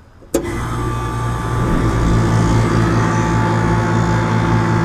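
Rooftop air conditioner condensing unit starting up: a sharp click as it switches on about a third of a second in, then the compressor and condenser fan hum, building over a second or so to a loud, steady run.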